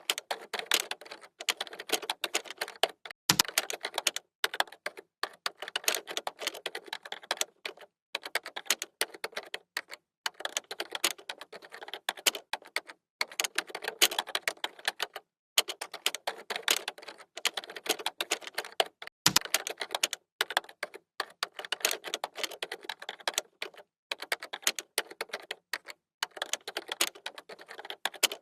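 Computer keyboard typing: fast runs of key clicks broken by short pauses, with a duller low knock twice, about three seconds in and again near nineteen seconds.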